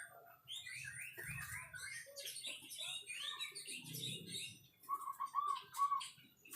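White-rumped shama singing a fast, varied song of high warbling notes, switching about five seconds in to four repeated, lower, louder whistles.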